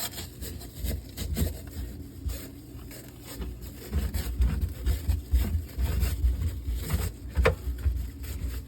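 Small stiff-bristle brush scrubbing inside a refrigerator: irregular scraping strokes mixed with knocks and bumps.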